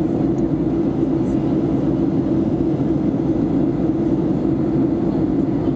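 Steady drone of an airliner in flight heard inside the passenger cabin: engine and air noise with a constant low hum.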